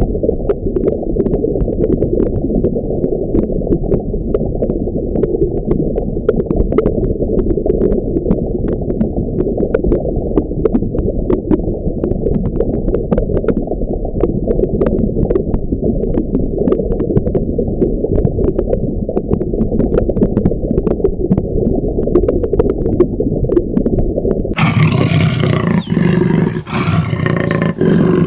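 A large animal's loud, continuous low roaring and growling with a muffled, dull tone. About 25 seconds in it changes to a clearer, fuller-toned roar.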